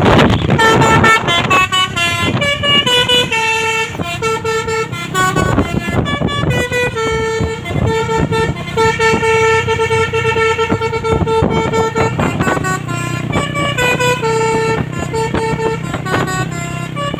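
Basuri musical horn on a Mitsubishi Fuso truck playing a melody of short notes that step up and down in pitch, with the truck's engine running underneath.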